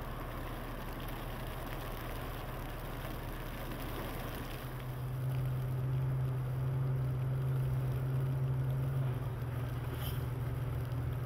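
A vehicle engine running with a steady low hum that grows louder about four to five seconds in and eases back again near nine seconds.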